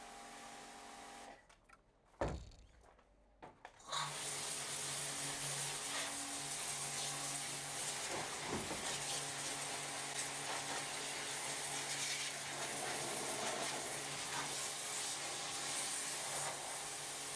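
Pressure washer starting about four seconds in, after a short quiet broken by one thump, then running steadily: a motor hum under the constant hiss of the water jet spraying the stripped boat hull interior.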